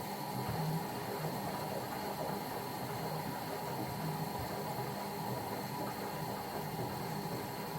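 Bauknecht WA PURE ST 14 FLD washing machine in its steam self-cleaning cycle: the drum motor hums as the drum turns, with a wavering low hum that sets in at the start, over a steady hiss from the steam generator.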